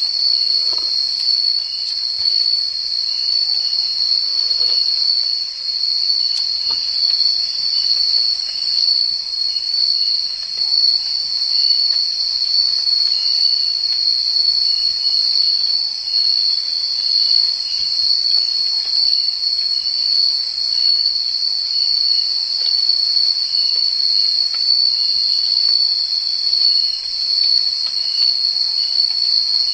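Chorus of insects: one steady, shrill, high-pitched trill and, a little lower, a second insect calling in a fast pulsing rhythm.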